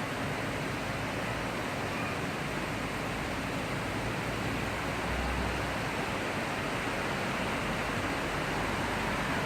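Heavy rain falling in a thundershower, a steady hiss, with a short low rumble swelling about five seconds in.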